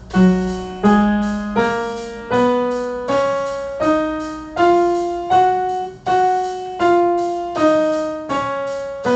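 Piano playing a slow one-octave scale, one note struck about every three-quarters of a second, climbing eight steps and then coming back down: the F-sharp major scale played through as a practice track.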